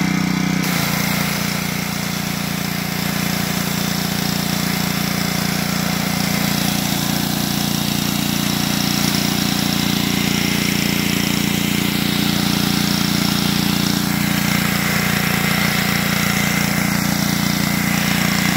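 Petrol pressure washer's 5-horsepower Honda engine running steadily, with the hiss of the high-pressure water spray.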